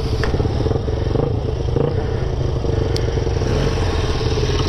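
Classic BSA motorcycle engine running steadily with a rapid, even firing beat, with a sharp click about three seconds in.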